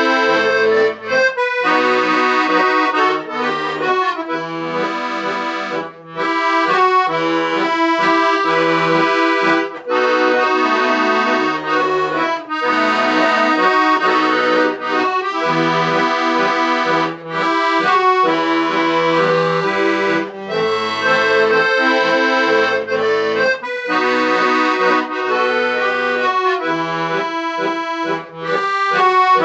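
Accordion playing a slow melody over held chords, with brief pauses between phrases.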